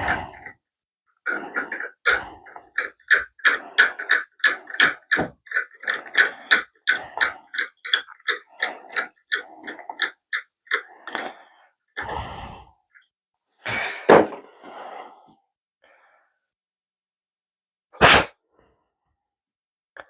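A hand tap being turned in an oiled, cross-threaded hole in aluminum to chase out the damaged threads: a run of short clicks, two or three a second, for about ten seconds. Then a few separate, louder noisy bursts, the last a sharp one near the end.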